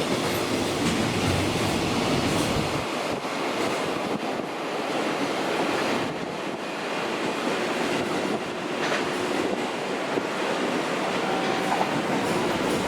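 Freight train passing on the rails: steady wheel and wagon noise, the deepest rumble dropping away about three seconds in.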